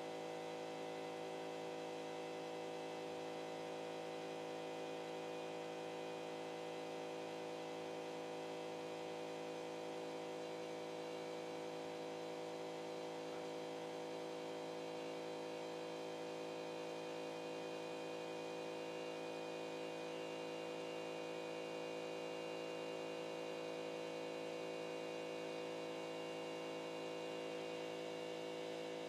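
Stepper motors of a CNC pen-drawing machine running, a steady hum made of several fixed tones.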